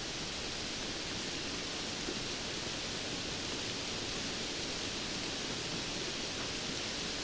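Steady rainfall: an even hiss of falling rain with faint scattered drop ticks.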